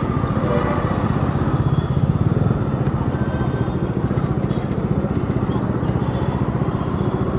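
Bajaj Dominar 400's single-cylinder engine running steadily under way, with a fast, even exhaust beat that swells slightly about two seconds in.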